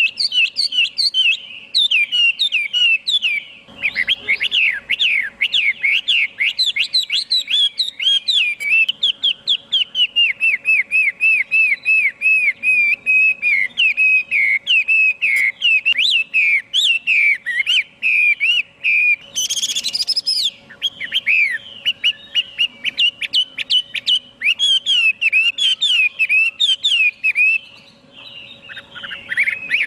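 Chinese hwamei singing: a fast, nearly unbroken run of clear whistled notes that swoop up and down, with a brief higher phrase about two-thirds of the way in.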